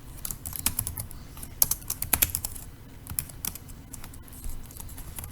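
Typing on a computer keyboard: irregular runs of quick keystrokes, thinning out in the second half.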